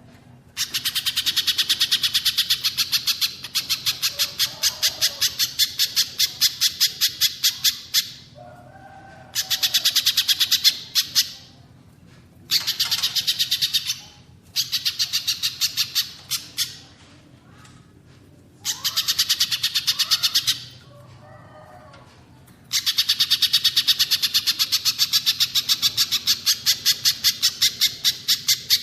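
Songbird masteran recording of a pijantung pisang (spiderhunter) and a cililin. It is dominated by bouts of a loud, rapid, machine-gun-like chattering trill of about ten sharp notes a second, each bout lasting two to eight seconds. Softer, lower warbling notes fill the gaps between the bouts.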